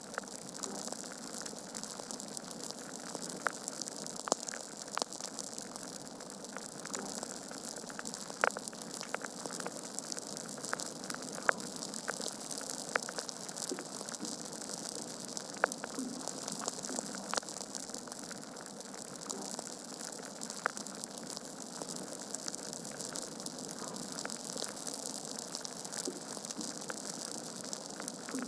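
Wood fire burning in a fireplace: a steady hiss with frequent, irregular sharp crackles and pops from the logs.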